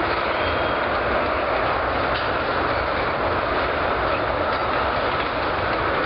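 Freight train of tank cars rolling past: a steady, even noise of steel wheels on the rails, with a few faint clicks as wheels cross rail joints.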